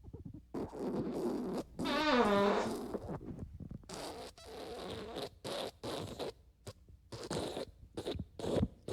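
A string of fart sound effects: a long sputtering one with a pitched squeal that falls in pitch about two seconds in, then a run of short raspy farts.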